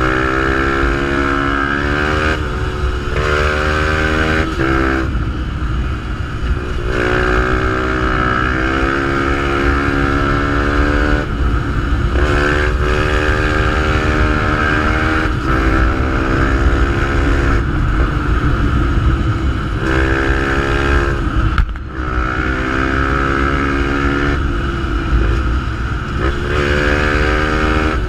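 Fantic 125 supermotard's 125 cc single-cylinder engine, breathing through a GPR exhaust, pulling hard through the gears. The engine pitch climbs, then drops at each shift, about a dozen times in succession.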